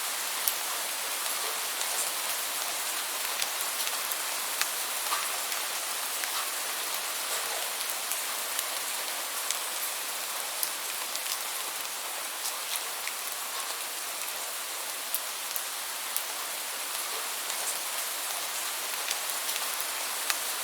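Steady rainfall, an even hiss with frequent sharp drop ticks scattered through it.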